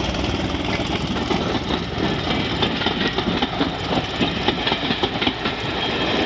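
A diesel locomotive engine running close to the line as a train comes by. Rapid clattering grows louder from about two seconds in.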